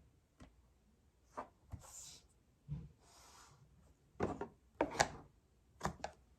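Cardstock pieces being handled on a work surface: a scattering of sharp taps and knocks, with two short papery rubbing swishes about two and three seconds in.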